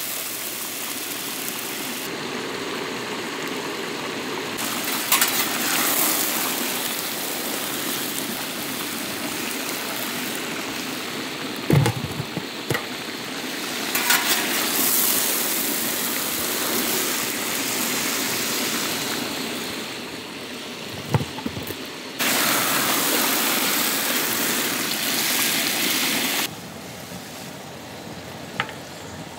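Chopped brinjal frying in a large pan of sesame oil, a steady sizzle whose level shifts a few times, with a few sharp knocks of the stirring ladle against the pan.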